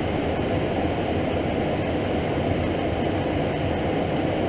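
Steady cockpit noise of a Cessna Citation V jet in flight: the rush of airflow with the even hum of its twin turbofan engines, unchanging throughout.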